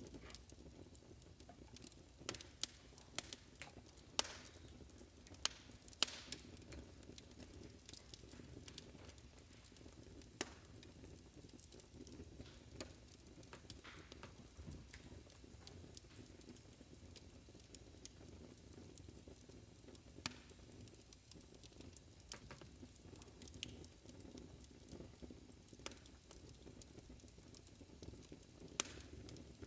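Wood fire crackling in a fireplace: irregular sharp pops, several of them louder in the first few seconds, over a low steady rumble.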